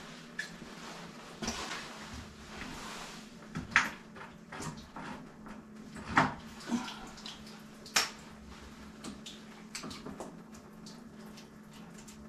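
Scattered knocks and clanks of hands-on plumbing work on a water heater and its piping, the loudest three about four, six and eight seconds in, over a steady low hum, with some water splashing and dripping as the heater is drained.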